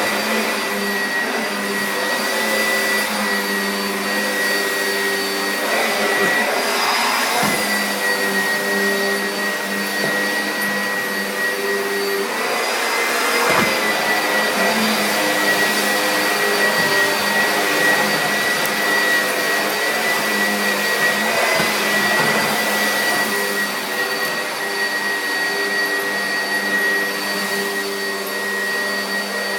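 Household vacuum cleaner running steadily while vacuuming a carpeted living room, a high whine over a lower motor hum, the whine's pitch wavering slightly. A couple of brief knocks come about seven and thirteen seconds in.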